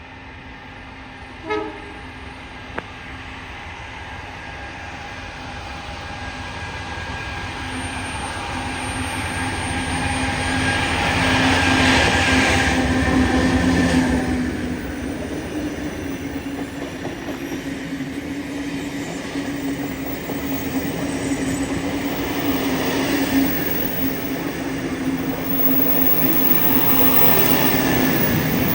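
Train approaching and passing, growing steadily louder to a peak about twelve seconds in and then easing off, with a steady low drone running throughout.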